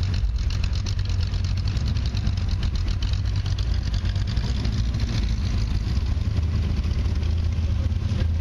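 Large V8 engine idling steadily, with no revving, with faint voices in the background.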